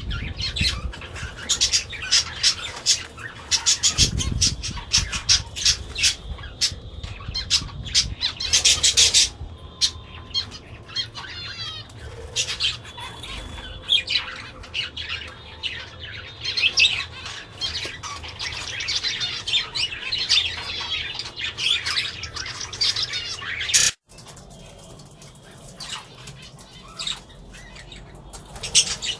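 Caged budgerigars and finches chattering with rapid high chirps and squawks, many birds calling at once; the chatter grows quieter after a sudden break near the end.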